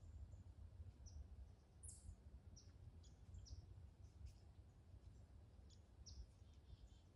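Faint, scattered short high-pitched bird chirps, about a dozen over several seconds, above a steady low background rumble.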